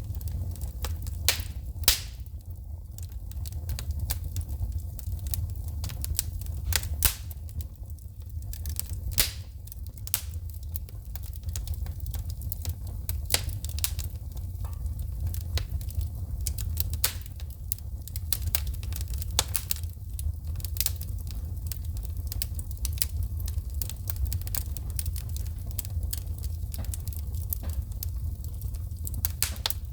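Wood fire burning in a fireplace, crackling with frequent sharp, irregular pops as sparks shoot from the burning logs, over a steady low rumble of the flames.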